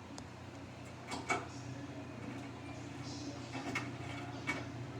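Samsung washing machine running with a steady low motor hum and a few sharp clicks and knocks from the drum. It holds a single jacket, too light a load, which the owner says is out of balance.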